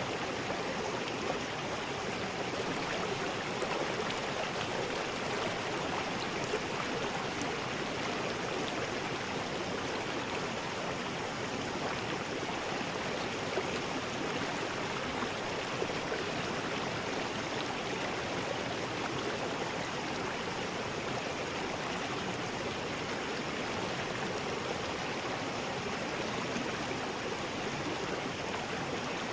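River rapids: water rushing over rocks in a steady, unbroken roar of white noise.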